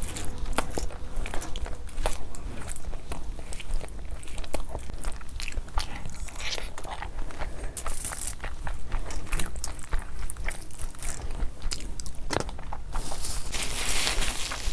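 Close-miked chewing and mouth sounds of eating curry and basmati rice by hand: many short wet smacks and clicks. Near the end a brief rustle as a paper tissue wipes the mouth.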